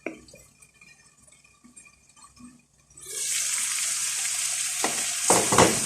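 Food starting to sizzle in a hot pan: after a quiet start with a few faint clicks, a loud, steady sizzle begins suddenly about three seconds in. A few knocks from stirring in the pan come near the end.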